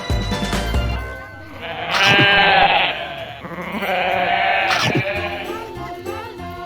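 Two long bleats from a sheep or goat-type farm animal, the first about two seconds in and the second just after the middle, over background music.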